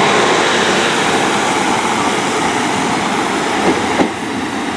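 Diesel passenger train pulling out of the station, its wheels and engine running steadily on the track, easing slightly, with a couple of short knocks from the wheels near the end.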